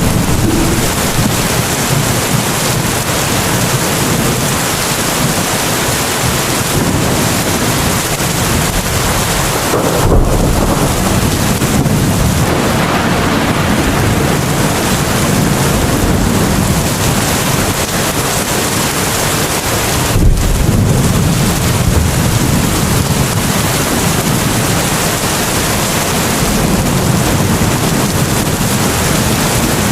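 Heavy rain falling in a steady hiss, with deep rumbles swelling about ten seconds in and again about twenty seconds in.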